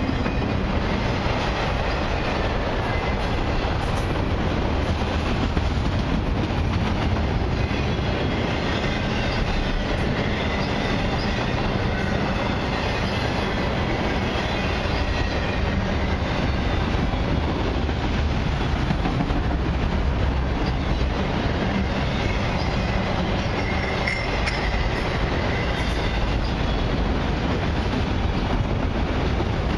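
Autorack freight cars rolling past close by: a steady rumble and rattle of steel wheels on the rails. A faint high squeal from the wheels comes and goes, clearest about 24 seconds in.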